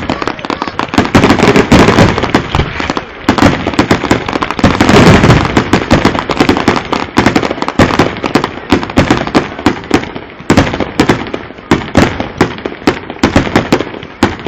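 Fireworks going off in rapid succession: a dense barrage of bangs and crackles that, in the second half, thins into separate bangs a fraction of a second apart.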